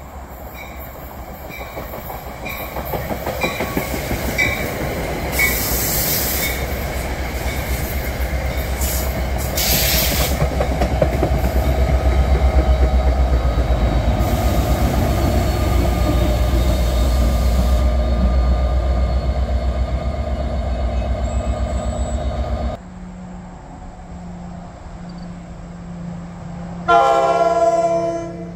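A diesel-hauled NJ Transit commuter train approaches and passes close by, its locomotive engine and wheels rumbling on the rails with a fast pulsing rhythm, loudest as the locomotive goes past. Two brief high hissing bursts sound early on the approach. After a cut, a second train's horn blows loudly once, for about a second and a half, as it approaches.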